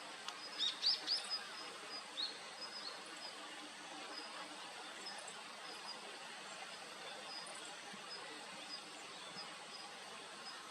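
Short, high bird call notes, loudest in a quick cluster about a second in, with a few fainter chirps after. They sit over a steady outdoor background hiss.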